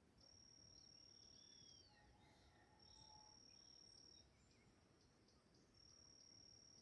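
Faint dawn sounds of wildlife: a high, steady insect-like trill repeats in stretches of about a second and a half, with short pauses between them. A few brief bird chirps come about one to two seconds in.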